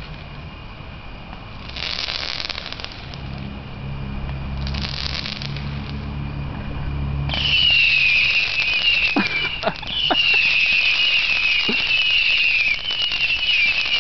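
Fireworks: two short hissing whooshes, then from about halfway a firework burning with a loud steady hiss and a high whistle that wavers up and down again and again, with a few short falling whistles.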